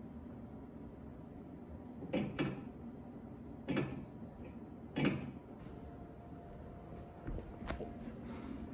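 Three knocks about a second and a half apart, then a few lighter clicks near the end, like objects being handled and set down.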